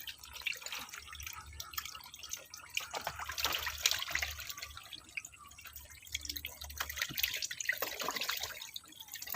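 Water splashing and dripping in many small, irregular bursts, busier around the middle and again near the end.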